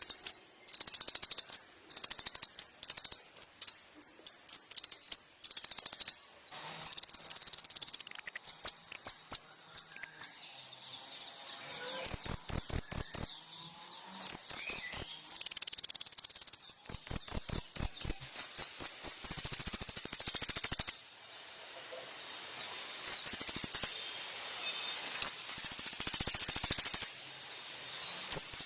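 Kolibri ninja (konin) sunbird singing: bursts of rapid, high-pitched trilling and chirping, each lasting one to a few seconds, with short pauses between.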